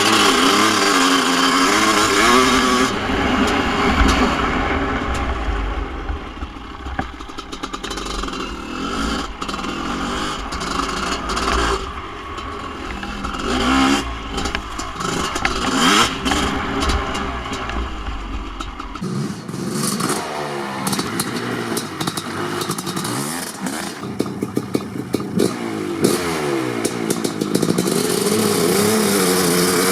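Kawasaki KX500's single-cylinder two-stroke engine through an FMF Gnarly expansion pipe, revving up and down over and over, its pitch rising and falling.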